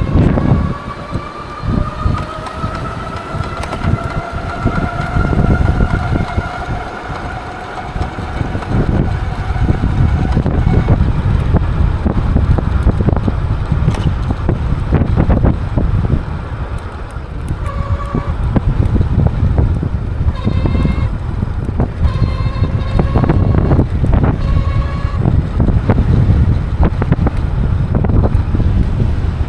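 Wind buffeting the microphone in loud gusts while riding an XP 3.0 e-bike, with the electric motor's whine rising in pitch over the first several seconds as the bike speeds up. Several short, clipped tones come between about 18 and 25 seconds in.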